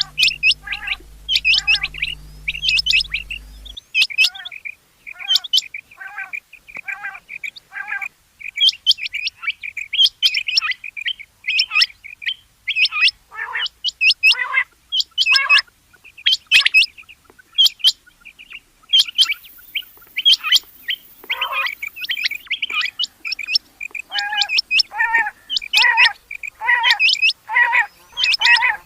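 Rain quail calling: short, sharp call notes repeated about one or two a second, coming thicker and overlapping from about eight seconds in, as if more than one bird is calling.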